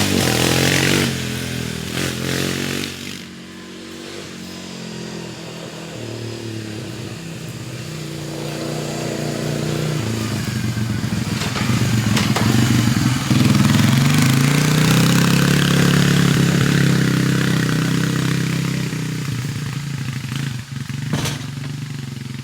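ATV engine running and revving as the four-wheeler is ridden, growing louder as it comes near and fading again near the end; it is running well after its carburetor was cleaned and the diaphragm gasket reset.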